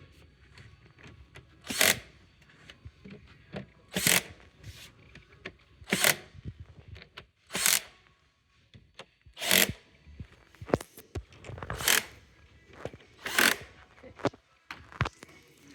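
Cordless drill-driver run in short bursts, about seven of them roughly two seconds apart, driving screws to fasten the bed frame's panels.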